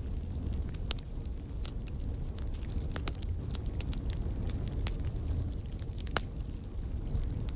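Wood fire crackling, with frequent sharp, irregular pops and snaps over a steady low rumble of the burning fire.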